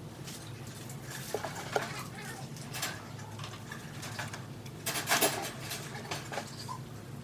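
Scattered light clicks and clinks of hard parts being handled, with a louder clatter about five seconds in, over a steady low hum.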